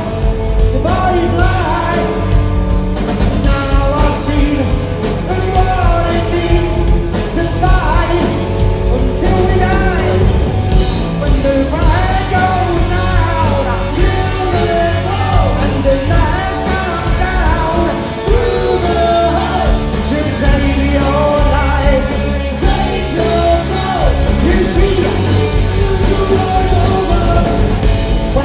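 Live rock band playing a song at full volume, with drums, bass, electric guitar and singing.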